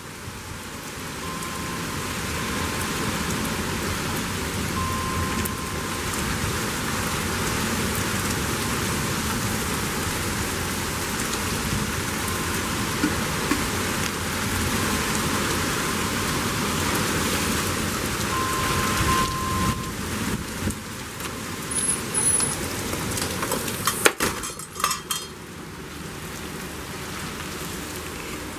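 Heavy rain pouring steadily in a severe thunderstorm. Near the end a sharp knock and some handling clicks, after which the storm sounds quieter and muffled.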